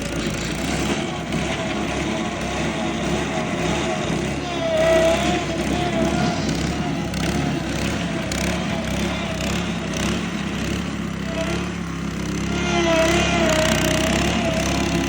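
Small petrol engine of a mini roller running steadily, its note wavering up and down.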